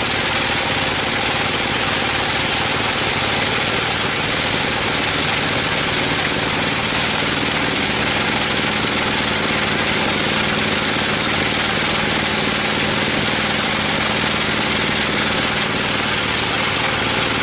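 Sawmill machinery running steadily: an even engine drone with a constant high whine over it, no change in load.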